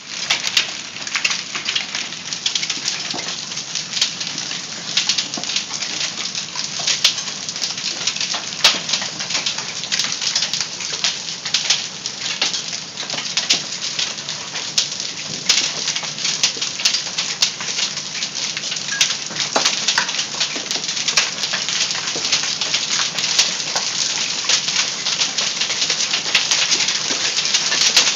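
Hail falling heavily: a dense, steady clatter of quarter- to golf-ball-sized hailstones striking surfaces, with many sharp individual impacts over a continuous rain-like hiss.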